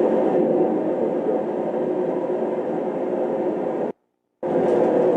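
Shop heater running with a steady whirring hum. It cuts out abruptly for about half a second a little before four seconds in, then carries on.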